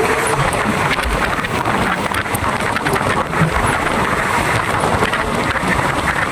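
Thai rapid passenger train running, heard from on board: a steady rushing rumble of wheels on rails, with many small clicks and rattles throughout.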